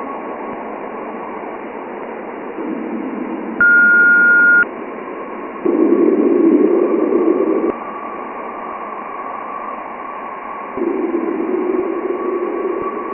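Juno spacecraft's radio-wave recording of Jupiter's ionosphere converted to sound: a radio-like hiss that swells into lower rushing surges several times. A steady high beep sounds about four seconds in and lasts a second.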